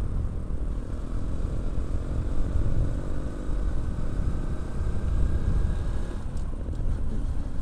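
Honda Supra X 125 single-cylinder four-stroke engine running as the bike is ridden at a steady pace, under a heavy, uneven rumble of wind on the microphone.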